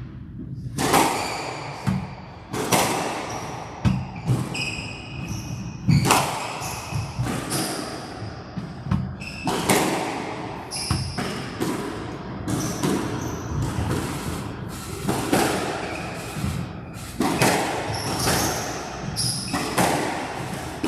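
A squash rally: the ball struck by rackets and hitting the court walls roughly once a second, each impact echoing, with shoes squeaking on the court floor a few times.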